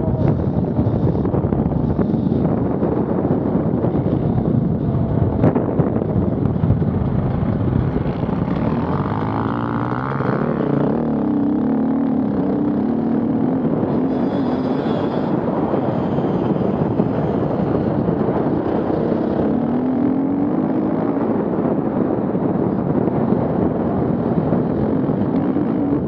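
Off-road vehicle engines running under a steady rumble of noise, with an engine revving up and down about ten seconds in and again near twenty seconds.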